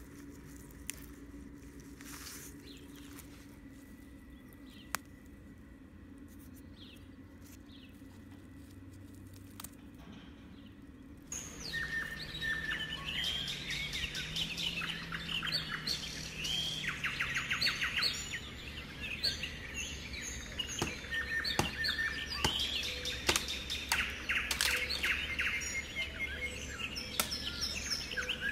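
Several songbirds singing and chirping at once, with many overlapping trills and repeated chirps. They begin suddenly about eleven seconds in, after a quiet stretch with a few faint clicks.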